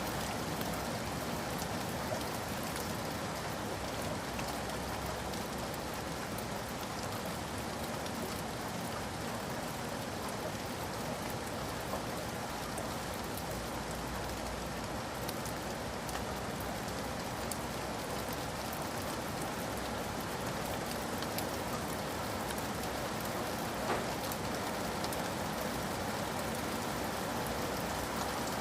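Steady rain falling, an even hiss with scattered drop ticks, laid down as a background for reading and study.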